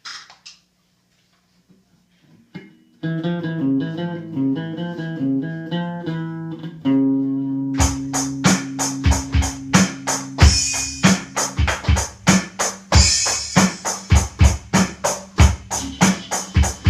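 Electric guitar and drum kit jamming. After about three seconds of near silence the guitar plays alone, holding a long note near the seventh second, and the drums come in about eight seconds in with a steady beat.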